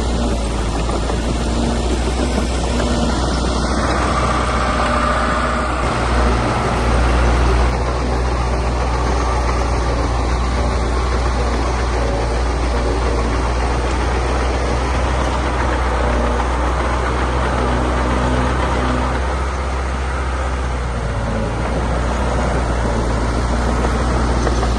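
Diesel engine of heavy earthmoving machinery running steadily, with a short louder surge about six seconds in.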